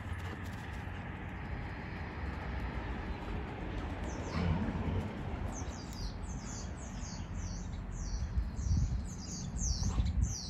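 A small songbird singing a quick run of short, high chirps, two or three a second, starting a little past halfway, over a low steady outdoor rumble.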